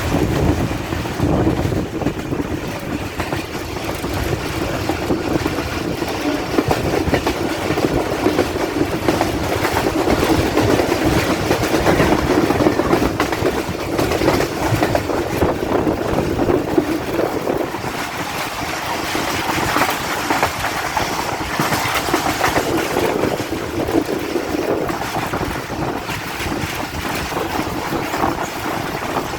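Awam Express passenger train running along the track: a steady rumble with the wheels clattering over the rails.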